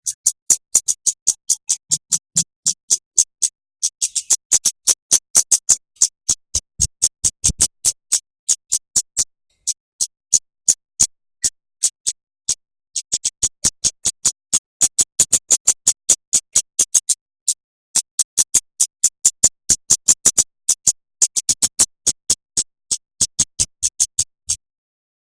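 A bird's sharp, high chip notes repeated fast, about four or five a second, in runs of several seconds with short breaks between. This is a masteran recording used to teach cage songbirds rapid 'shots'.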